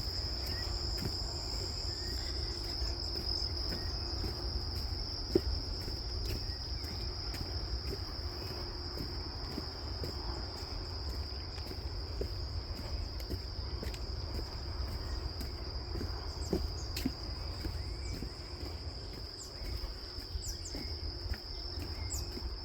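Forest insect chorus: one continuous high-pitched buzzing trill, over a low rumble.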